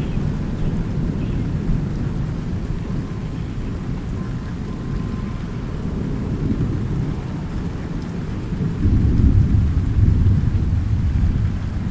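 Thunderstorm: continuous low rolling thunder over steady rain, the rumble swelling louder about nine seconds in and easing off a couple of seconds later.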